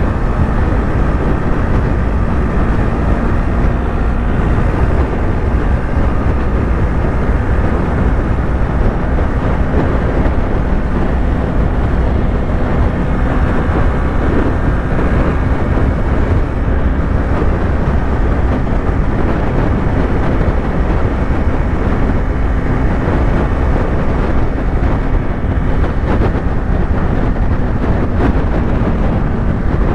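Yamaha YZF-R3's parallel-twin engine running at a steady cruising speed under heavy wind and road rush. The engine note holds an even pitch, with no shifts or revs.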